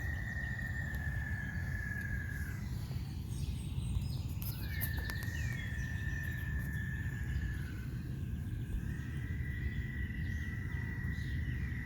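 An unseen animal's loud, steady, high-pitched trill, held for a few seconds at a time with short breaks: three long trills, the last starting about two thirds of the way in. It is the kind of call heard after a warm rain, with faint chirps above it.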